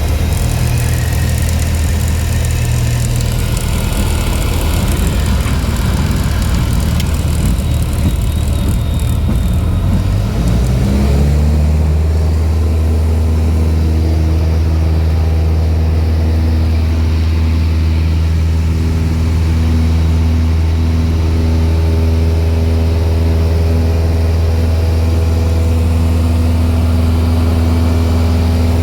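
Cessna 172's piston engine and propeller heard from inside the cockpit, running over a steady rushing noise. About ten seconds in, the engine pitch rises quickly and then holds steady at a higher, even tone, as when the throttle is pushed up to full power.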